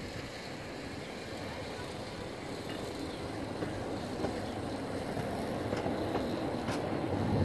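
A small park-railway train approaching and passing close by, its running noise growing steadily louder. From about three and a half seconds in, the wheels click now and then over rail joints and points.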